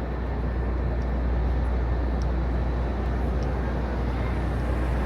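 Steady city street ambience: a continuous low rumble with an even wash of traffic noise, with no single event standing out.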